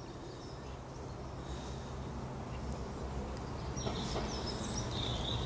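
Small birds chirping and twittering, beginning nearly four seconds in, over a steady low rumble of outdoor background noise.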